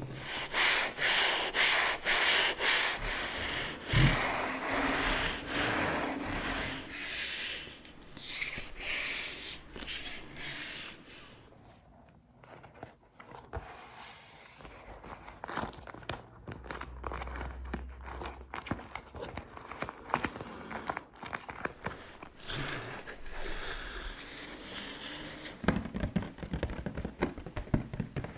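Close-up ASMR tapping and slow scratching on object surfaces, a dense run of quick taps and scrapes. It goes quieter and finer around the middle, then picks up again near the end.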